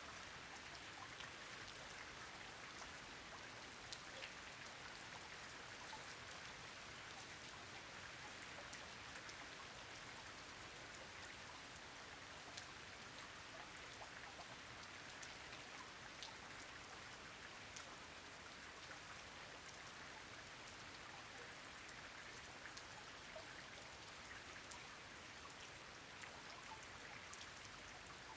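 Steady, faint rain falling on a pond, with many small drop ticks scattered through the even hiss.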